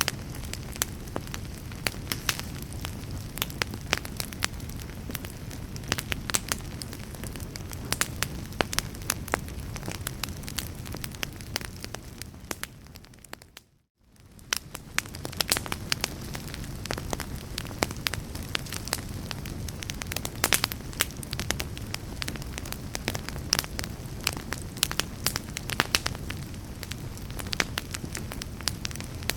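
Wood fire crackling, with frequent sharp pops over a steady low rumble. About halfway through the sound fades out to near silence for a moment and fades back in.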